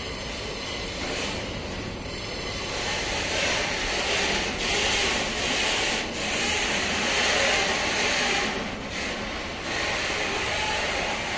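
Freight wagons of a container train rolling past on the rails, a steady rumbling and rubbing wheel-on-rail noise that grows louder about three seconds in.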